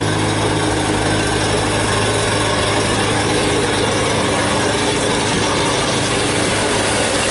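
Diesel engine of a truck heavily loaded with coal, running steadily under load on a steep uphill climb.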